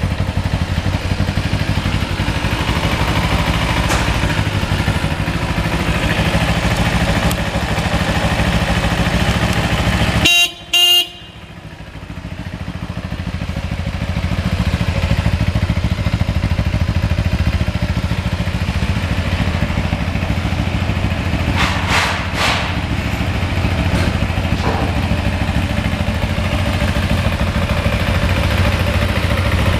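2009 Kawasaki Ninja 250R's parallel-twin engine idling steadily. About ten seconds in, the horn sounds in two short beeps, after which the engine sound is quieter for a few seconds before it settles back.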